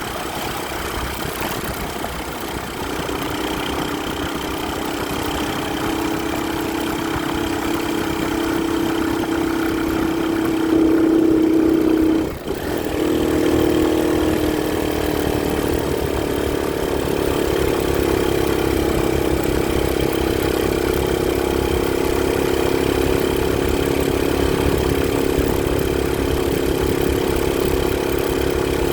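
Motorcycle engine running steadily under way, its note climbing slowly over the first dozen seconds, with a brief sharp dip about twelve seconds in before it settles back to a steady drone.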